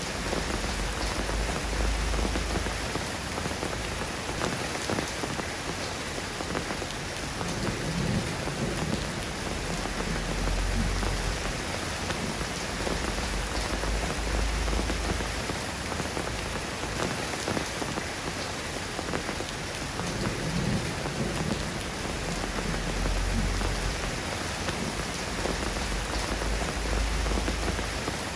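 Steady soft rain falling on a surface, an even patter of drops, with a low rumble swelling and fading several times underneath.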